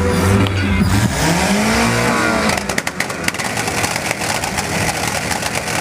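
Naturally aspirated Chevrolet Chevette engine revved up and down, then held on the rev limiter from about halfway in, cutting in and out in a rapid stutter.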